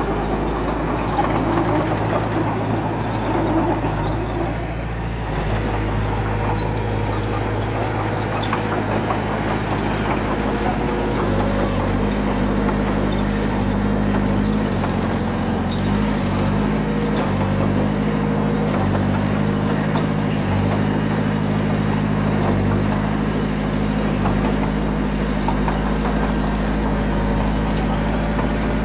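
Diesel engine of heavy earthmoving equipment running steadily under load, its note shifting up a little about eleven seconds in and dipping briefly a few seconds later.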